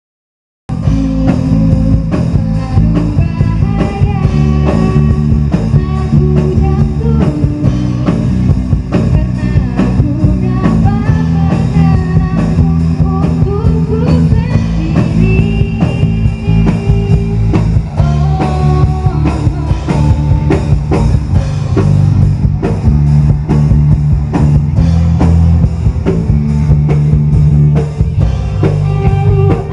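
Rock band playing, with guitar over bass and drum kit, starting abruptly about half a second in.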